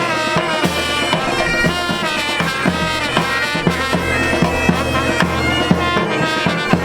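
A pipe band playing: bagpipes sound a melody over their steady drone, with drums keeping a beat of about two strokes a second.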